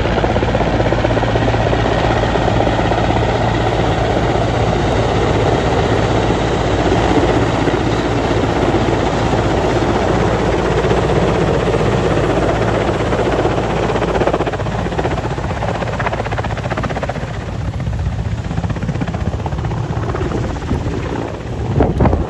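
Helicopter rotor and engine running loud and steady, growing gradually quieter over the second half, with a brief louder burst near the end.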